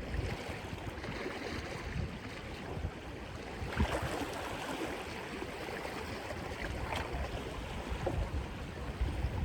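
Wind buffeting the microphone over the steady wash of sea water on rocks, with two faint clicks, about four and seven seconds in.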